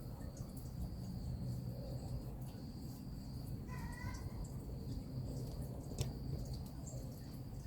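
Steady high-pitched drone of insects, with a single short pitched animal call about four seconds in and a sharp click about six seconds in.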